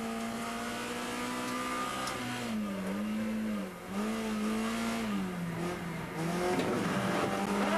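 Citroën Xsara rallycross car's engine heard from inside the cockpit. It holds steady revs for about two seconds, then dips in pitch and picks up again three times, climbing back near the end.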